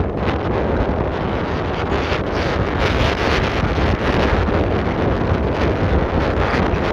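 Strong wind buffeting the microphone: a loud, steady rumble with gusty flutter.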